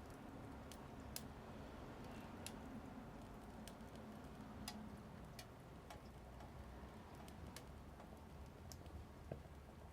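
Small wood fire crackling in a mini wood-burning stove: faint, irregular sharp pops and ticks, about one a second, over a low steady hiss.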